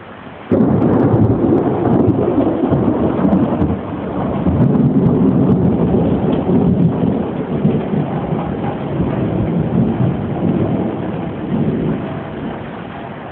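A thunderclap breaks suddenly about half a second in, then rolls on as a heavy rumble that swells and ebbs before dying away near the end. Heavy rain pours steadily underneath.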